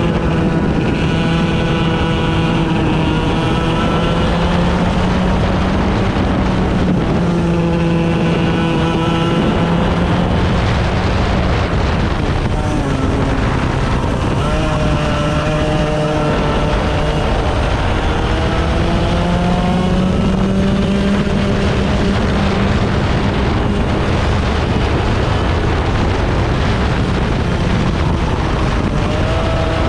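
Small 100cc racing engines running hard on track, their pitch climbing under acceleration and dropping off into corners, over and over.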